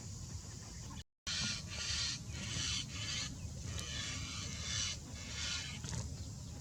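A bird giving a run of harsh, squawking calls, about six in quick succession, starting just after a sudden break in the sound about a second in. A steady low rumble runs underneath.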